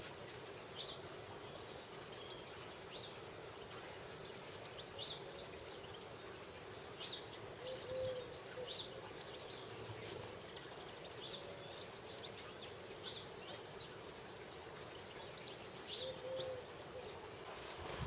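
Small birds giving short, high single chirps every second or two, over a steady background hum.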